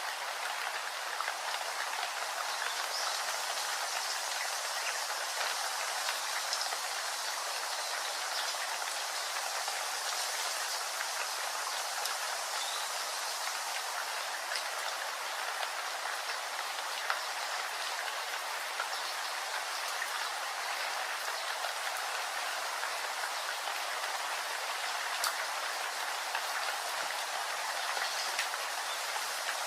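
Steady, even rain falling, with scattered drop ticks.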